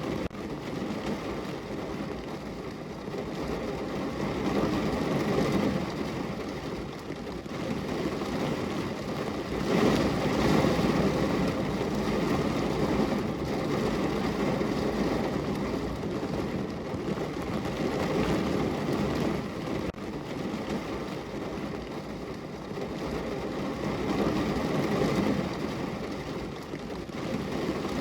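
Heavy rain falling on a car's roof and windows, heard from inside the cabin: a dense, steady hiss and patter that swells and eases every few seconds.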